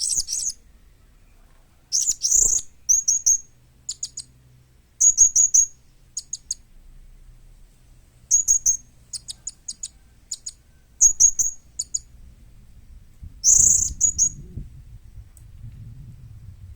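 Young blue-crowned hanging parrot (serindit) calling briskly, with high, sharp chirps in short rapid bursts of several notes, repeated every second or so with brief pauses.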